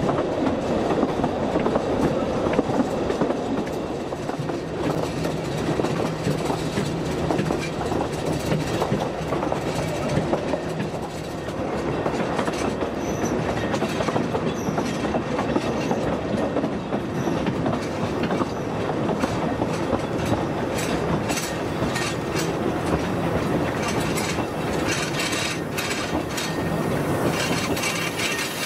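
Narrow-gauge railway carriage running along the track, heard from an open carriage window: a steady rumble of wheels on rail with a clickety-clack. A run of sharper clicks comes in over the last third.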